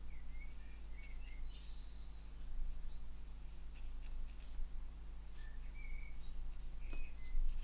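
Small birds singing: scattered short chirps and quick trills, over a steady low electrical hum. A single light tap sounds near the end.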